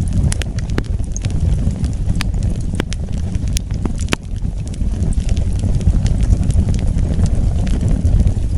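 Wood fire burning, with a steady low rumble of the flames and irregular sharp crackles and pops from the burning logs.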